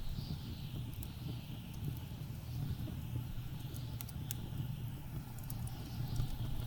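Blizzard wind outside: a steady low rumble with a high whistling that swells and fades. Over it a wood fire crackles with scattered sharp pops, two of the loudest about four seconds in.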